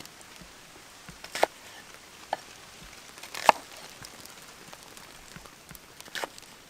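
Four sharp knocks or clicks, spaced irregularly, the loudest about three and a half seconds in, over a faint steady hiss.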